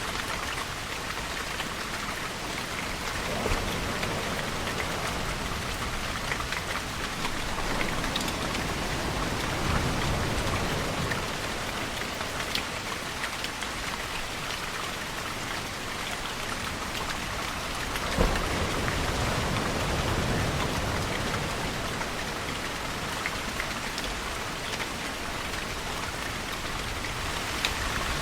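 Steady rain falling on surfaces, with scattered individual drops. A few low swells rise and fade under it, about three seconds in, around ten seconds and again near eighteen seconds.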